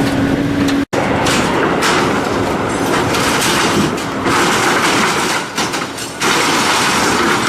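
Loud, dense heavy-machinery noise of scrap metal being torn up and crushed. It breaks off for an instant about a second in and changes again near six seconds.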